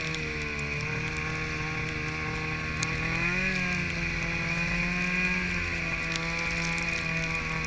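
Snowmobile engine running at a fairly steady speed, its pitch rising briefly about three seconds in and settling again, with a steady high whine over it and a couple of sharp ticks.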